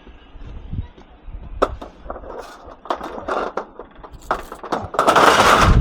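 Scrap being handled and thrown onto a loaded truck: a few sharp clanks, then a loud crashing clatter about five seconds in.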